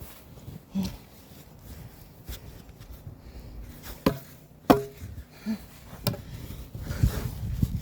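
A handful of sharp knocks and thuds of hard objects, spaced irregularly, the loudest just under five seconds in, over a low rumble.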